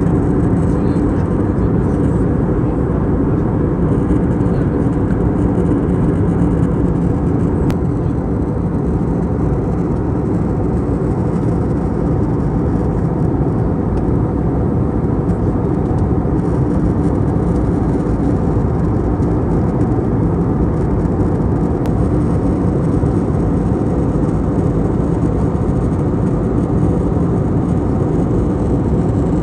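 Airbus A320neo cabin noise in flight: a steady low rush of airflow and engine sound.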